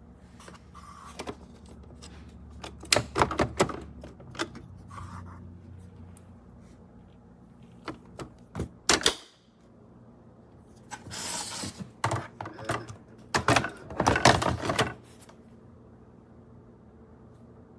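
Irregular clacks, knocks and rattles of hard objects being handled, with a rustling scrape partway through and a low hum over the first few seconds.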